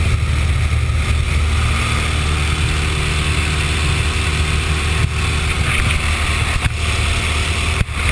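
Steady, loud engine drone with rushing noise over it, heard from aboard a moving craft. A brief click comes about five seconds in, and there is a short dip near the end.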